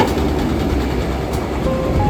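A train running on the rails, a steady, dense noise with some clatter. Music notes come in near the end.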